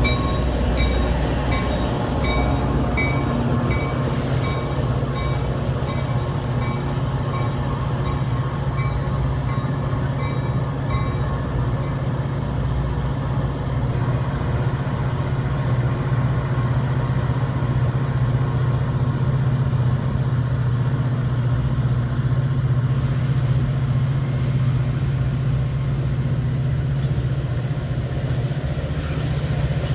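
Train running through on the BNSF line with a steady low rumble. A regular high-pitched dinging, about two a second, runs over it for roughly the first eleven seconds.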